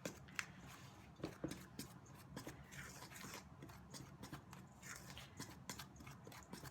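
A fork working soft spread into biscuit dough in a bowl: faint, irregular clicks and scrapes of the tines against the bowl.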